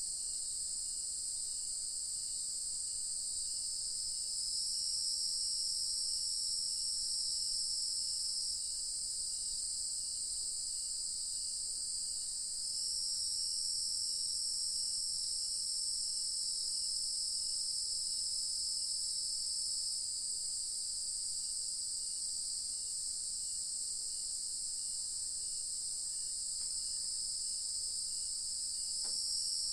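Evening chorus of crickets and other insects: a continuous high-pitched trill that swells louder for a few seconds about four seconds in, again for several seconds from about thirteen seconds, and near the end. A faint, regular pulse repeats underneath, a little under two a second.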